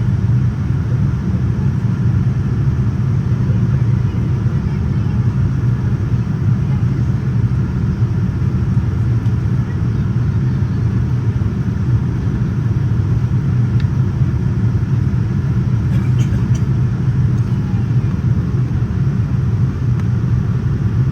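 Steady cabin noise inside a Boeing 787-9 airliner: an even, unbroken rumble of engines and airflow, heaviest in the low end.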